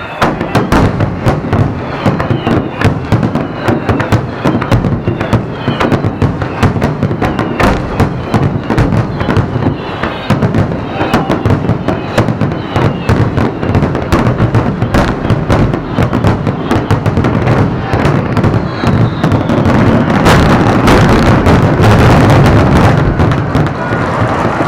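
A fireworks finale barrage: shell bursts and crackling overlap in a rapid, unbroken stream, with a few faint whistles gliding down in pitch in the first seconds. It grows louder and denser about twenty seconds in.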